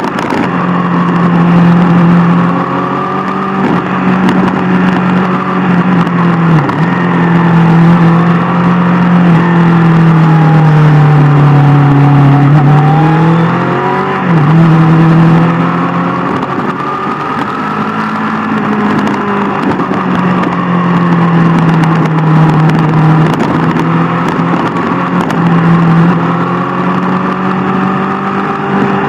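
Sport motorcycle engine running under way at a fairly steady cruise, its pitch rising and falling gently with the throttle, with the rush of wind and road noise. The pitch drops briefly twice, about a quarter and about halfway through, like gear changes.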